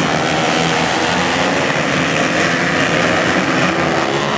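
Flat-track racing motorcycles running hard on the dirt oval: several engines overlapping in a loud, steady drone.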